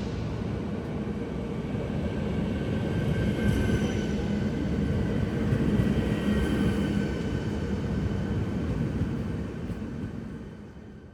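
Passenger train moving along the platform: a steady rumble of wheels on rails with a faint high whine over it, dying away near the end.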